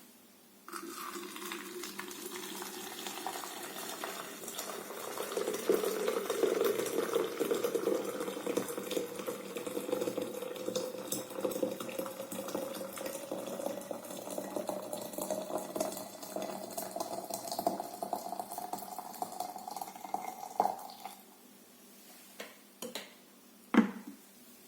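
Water pouring steadily into a 1.5-litre teapot, its pitch rising slowly as the pot fills, stopping after about twenty seconds. A few light clinks of the pot or lid follow near the end.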